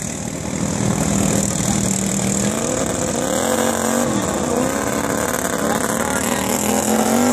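Racing lawn tractor engine running hard with a steady buzzing note. Its pitch dips and climbs back about three to four seconds in, then rises again near the end.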